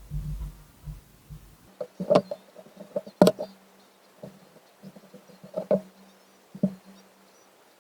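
Irregular knocks and clicks of hard objects being handled, loudest about two and three seconds in, over a faint steady low hum.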